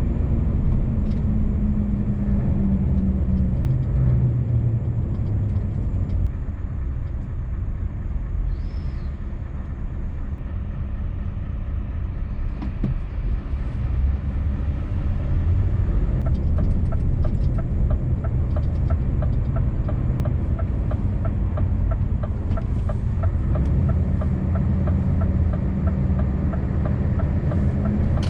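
Scania V8 truck engine running as the truck drives, heard from inside the cab: a steady low hum whose pitch shifts in the first few seconds and eases off for a while before picking up again. A regular ticking joins in from about halfway through.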